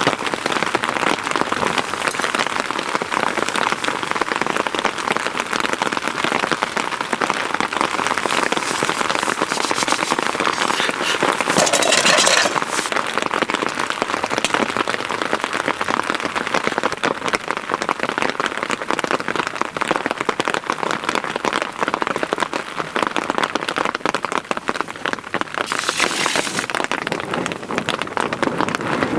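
Rain falling steadily, a dense patter of drops on a surface, swelling louder for a moment about twelve seconds in and with a brief higher hiss near the end.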